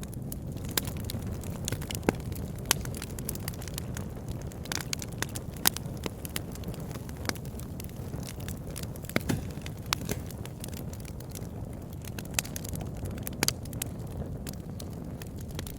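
Campfire burning: a steady low rush of flames with frequent irregular sharp crackles and pops.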